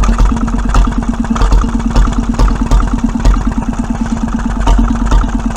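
1924 Petter M 1½ hp single-cylinder stationary engine running steadily on petrol, with a fast, even beat of exhaust strokes.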